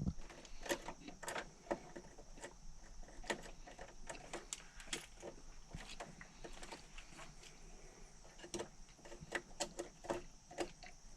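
Scattered light clicks and taps at an irregular pace, over a faint steady high hiss.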